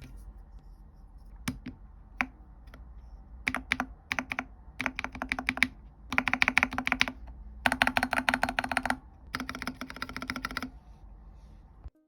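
Typing on a mechanical keyboard. A few single key presses come first, then five bursts of fast typing, each about a second long, with short pauses between them.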